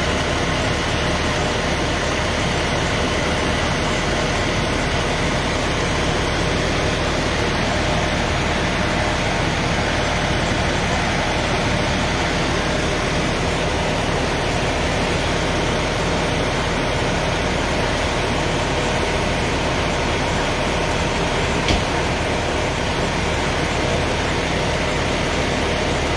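A vehicle engine idling steadily, with a single sharp click near the end.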